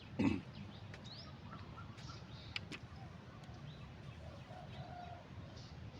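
Wild birds chirping and calling intermittently in short rising notes over a faint outdoor background, with one brief louder sound just after the start.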